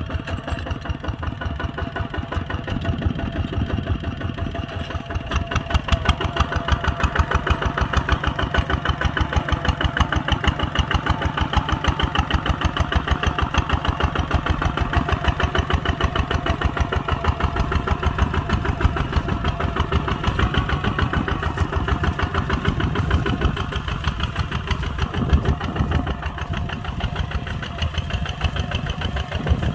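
Kubota ZT140 single-cylinder diesel engine running steadily with a rapid, even chugging beat. It gets a little louder about five seconds in and eases off slightly near the end.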